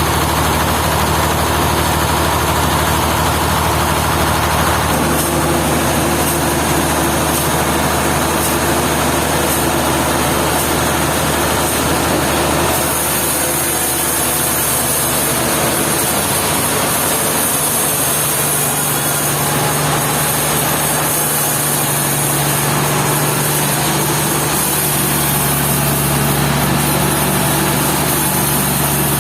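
Sawmill machinery running steadily, a motor-driven saw with a constant low hum and hiss. The high hiss grows brighter about halfway through.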